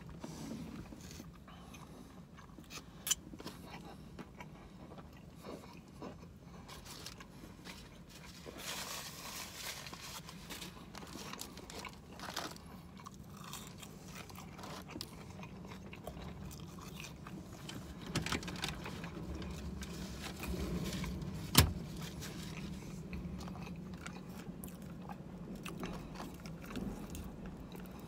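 Close-up chewing and biting of crispy fried chicken, with soft crunches and small mouth and wrapper clicks over a faint low hum; one sharp click about three-quarters of the way through.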